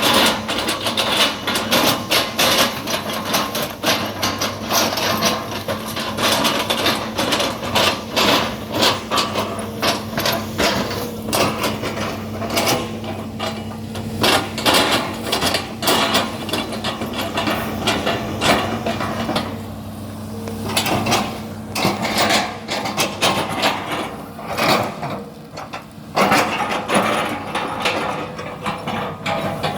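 An excavator's diesel engine runs steadily under a long series of irregular sharp knocks and cracks as the bucket strikes and breaks up felled oil palm trunks. There is a short lull in the knocking about two-thirds of the way through.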